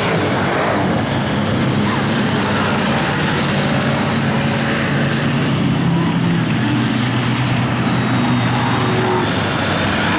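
Big mud truck's engine running loud and steady at high revs, a constant droning tone over heavy noise.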